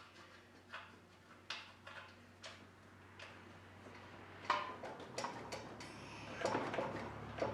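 Light clicks from hand tools about once a second while an engine mounting bolt is worked in, then louder metal clatter in the last few seconds.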